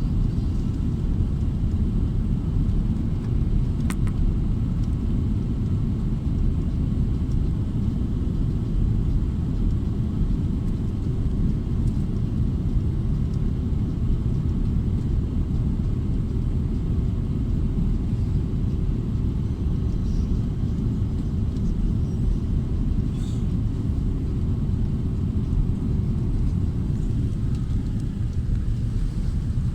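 Steady low rumble of an airliner's engines and airflow heard inside the passenger cabin, even throughout with no sudden changes.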